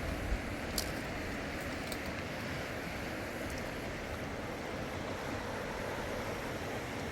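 Steady rushing of a flooded river's water, with a few faint clicks about a second and two seconds in.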